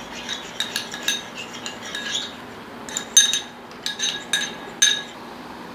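A utensil stirring glue and green paint in a container, clinking irregularly against its sides with a short ringing tone, until about five seconds in.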